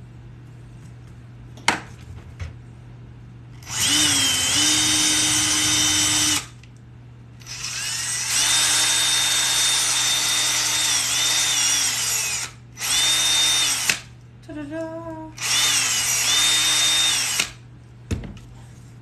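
Power drill run in four main bursts of a few seconds each, plus one short wavering burst, boring rivet holes through thick glued leather. The motor's whine is steady, with brief dips in pitch as the bit loads. A sharp click comes just before the first burst and another near the end.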